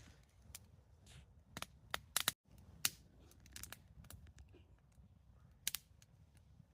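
Wood campfire burning and crackling, with irregular sharp pops and snaps over a low rumble.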